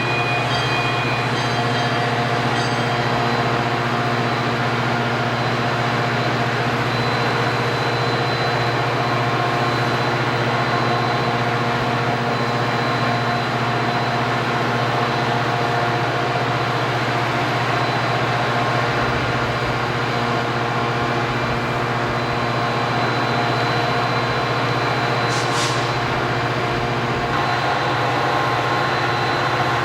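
A train rolling past at close range: a steady, continuous rumble and rattle of rail cars on the track. A short, sharp high sound comes about 25 seconds in.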